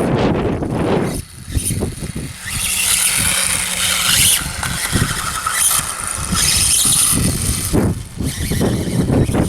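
Battery-powered Reely RC dirt bike riding, its electric motor and drivetrain whining in surges as it speeds up and eases off, with the rush of tyres on the ground.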